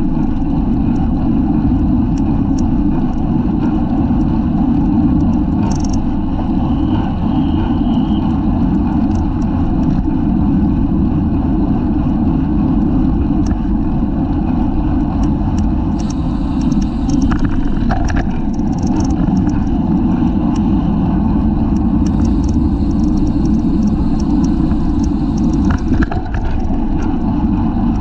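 Steady, loud wind rush and road noise buffeting the microphone of a bicycle-mounted rear camera while riding at race speed, with scattered light ticks in the second half.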